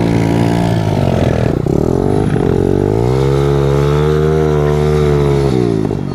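Small motorcycle engine running and revving: the pitch sags briefly about a second and a half in, climbs again around three seconds, holds high, then drops away near the end.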